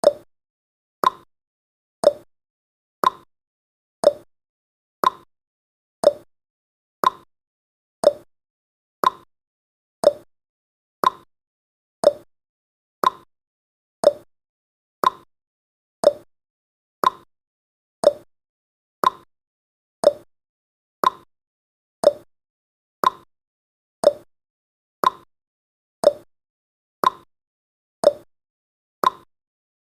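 Clock-style tick-tock sound effect of a countdown timer, one short tick every second, alternating between a higher tick and a lower tock.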